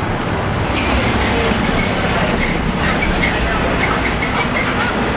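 A train running on the elevated track overhead: a steady loud rumble with faint high squealing tones partway through.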